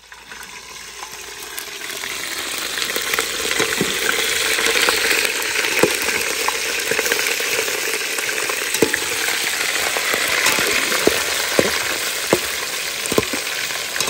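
Chicken pieces frying in hot oil: a steady sizzle that builds up over the first couple of seconds, with scattered pops and crackles.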